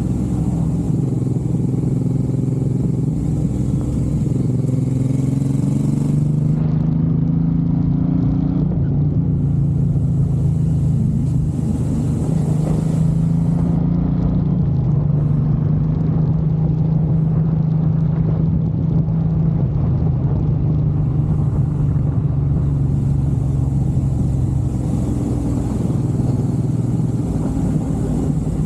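Suzuki Boulevard M109R's 1783 cc V-twin engine running under way, its pitch shifting over the first several seconds and then holding steady at cruise, with a hiss in the highs that comes and goes.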